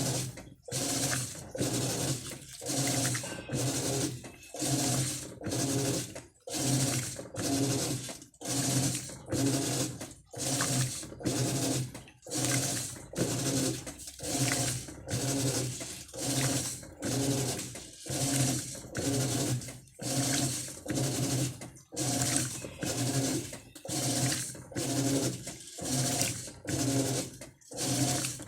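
Electrolux LT12 top-loading washing machine agitating: the motor hums through each short stroke while the water sloshes, in a steady rhythm of roughly one stroke a second with brief pauses between.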